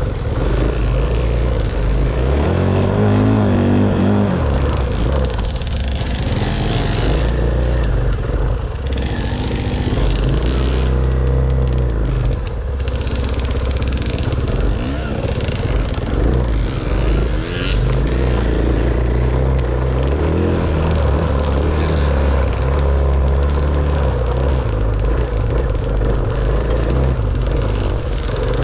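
Dirt bike engine running under way off-road, revving up and down as the rider works the throttle.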